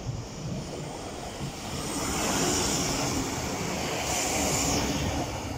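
Class 153 diesel railcar passing at close range: a steady rush of wheel and engine noise with a high hiss, swelling about two seconds in and easing near the end.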